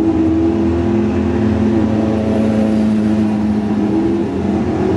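Car engines running with a steady drone, one car driving past close by. The pitch shifts a little as the revs change.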